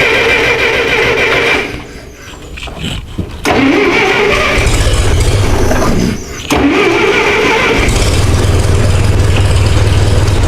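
Massey Ferguson 65 tractor's gasoline engine being cranked on choke by its electric starter in three tries. The engine catches during the second try and stalls, then catches again near the end and keeps running. It is a test start after a new exhaust manifold gasket, on an engine that had been running only on choke and dying.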